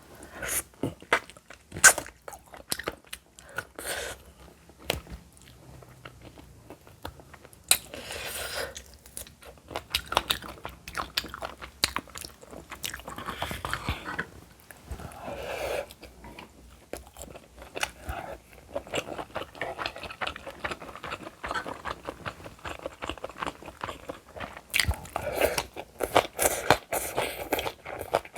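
A person chewing and biting food close to the microphone, with many short crunches and mouth clicks.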